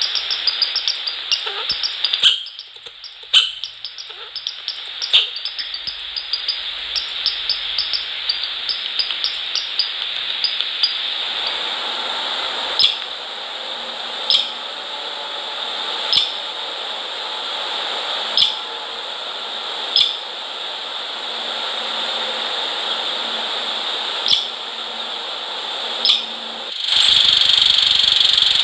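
Quick, irregular tapping and scratching of small animals feeding inside a bird feeder, over a steady hiss. After about eleven seconds the tapping thins to a single click every two seconds or so, and near the end a louder, steady rushing noise sets in.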